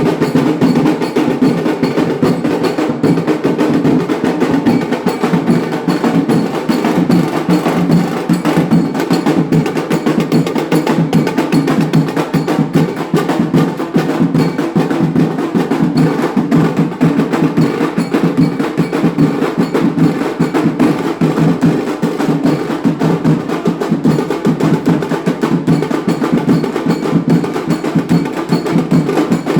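An Indian wedding band (band baaja) playing loud, fast, unbroken drumming.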